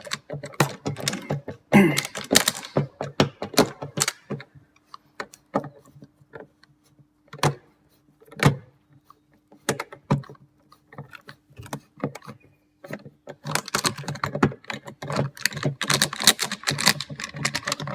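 Hand work with a screwdriver on a van's door trim: irregular clicks, scrapes and small metallic rattles as Phillips screws are undone and handled. It is busiest about two seconds in and again near the end, and sparse in between.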